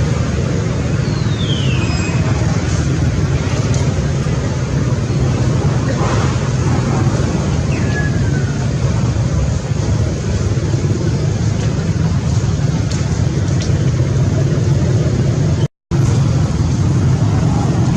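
Steady rumbling noise like road traffic or a running engine, with two short falling squeaks, one about a second in and one about eight seconds in. The sound cuts out for an instant near the end.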